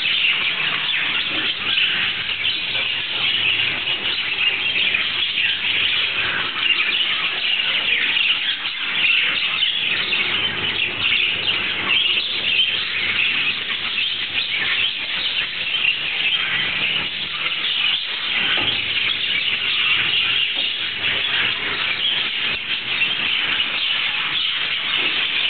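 A large flock of yellow, red-eyed (lutino) lovebirds chattering together without pause, a dense mass of high, overlapping chirps.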